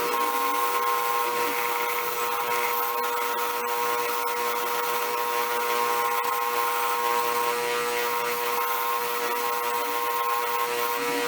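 Motor-driven wire wheel running steadily, its wire bristles scrubbing rust and paint off old steel Kraeuter pliers, with a constant motor hum under a scratchy brushing noise.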